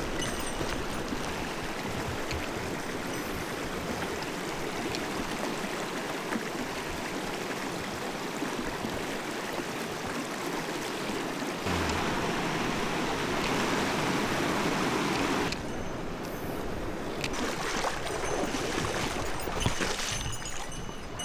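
Mountain stream water rushing over rocks, louder and fuller for a few seconds past the middle, then cutting off sharply to a quieter, uneven flow with a few small ticks.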